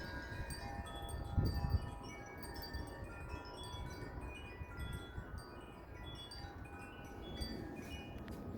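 A collection of wind chimes ringing in strong gusty wind, many overlapping tones sounding and dying away continuously. A low rumble of wind runs underneath.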